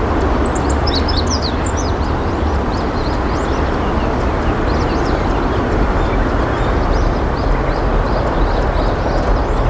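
Steady rushing noise, with small birds chirping and twittering high above it, most busily in the first couple of seconds.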